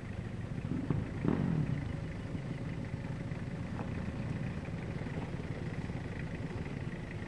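Toyota 4Runner's engine running steadily as the truck crawls over a rocky mound, with a brief louder swell about a second in.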